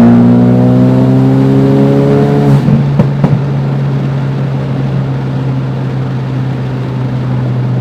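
Tuned Ford Focus RS's turbocharged 2.3-litre four-cylinder pulling hard under full throttle, its note climbing steadily for about two and a half seconds. It drops off sharply, a few sharp exhaust pops follow, and the engine settles into a steady drone.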